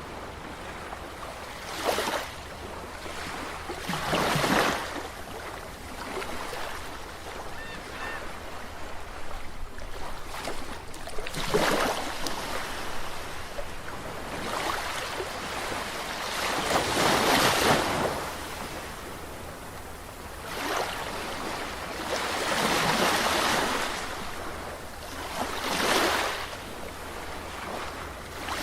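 Ocean surf: waves breaking and washing up a shore, a surge swelling and fading every few seconds, over a steady low rumble.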